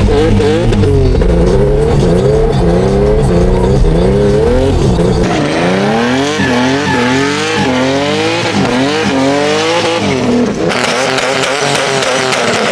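Turbocharged Infiniti G37's V6 engine revving hard again and again, its pitch swinging up and down, with tires squealing as the car drifts. The sound changes abruptly twice, as separate clips are cut together.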